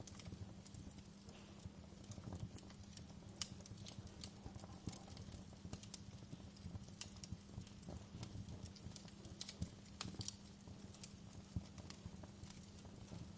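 Wood fire crackling, with irregular sharp pops and snaps over a low, soft rumble of burning.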